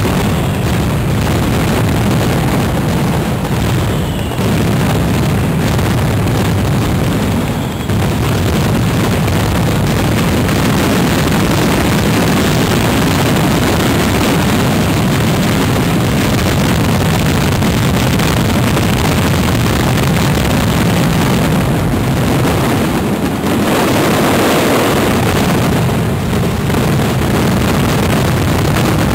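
Fireworks display: a loud, dense, unbroken barrage of bangs and crackle with no pauses.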